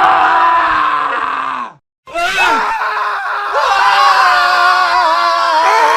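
Men screaming: one long scream falls in pitch and cuts off just under two seconds in, and after a brief gap another long scream starts, with several voices layered over one another.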